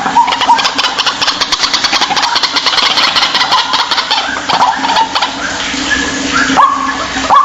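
White-breasted waterhen calling: a fast, rattling run of repeated notes, then short rising calls near the end.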